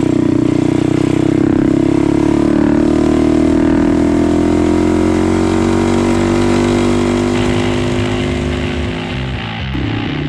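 Small mini bike engine running at steady high revs under way, its pitch sagging a little over the first few seconds and then holding. Near the end it changes abruptly to a rougher, quieter engine sound.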